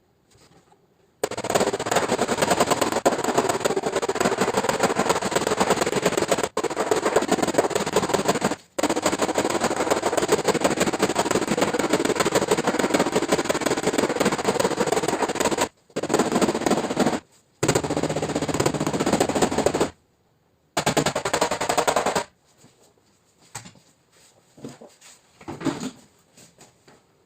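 A powered tool hammering at a rapid, machine-like rate in long runs. It stops briefly several times and ends about 22 seconds in, followed by a few faint separate taps.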